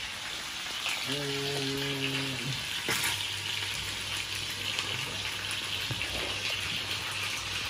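Pieces of marinated conger eel sizzling steadily as they fry in a frying pan. A brief low hum comes about a second in, and a single click near three seconds.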